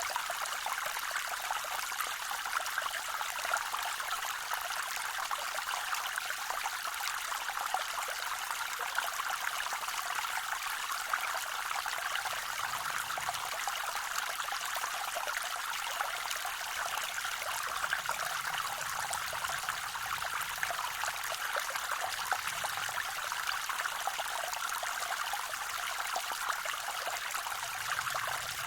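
Small forest creek waterfall: water splashing and trickling steadily over rocks, a bright, hissy babble.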